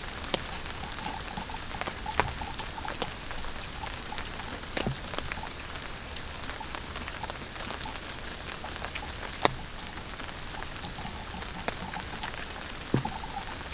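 Rain falling steadily on a tarp shelter, a dense patter of small drops with a few louder single drops hitting at irregular intervals.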